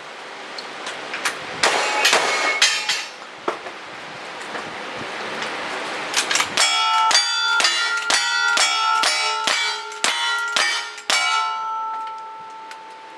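Gunshots with the ringing clang of struck steel targets: a few shots in the first three seconds, then a rapid string of about a dozen, roughly two or three a second, from about six and a half to eleven seconds in, the last plate ringing on for a couple of seconds.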